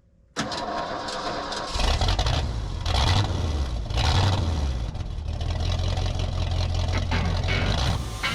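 A heavy engine starts up about half a second in, revs up in a few surges, then settles into a steady run.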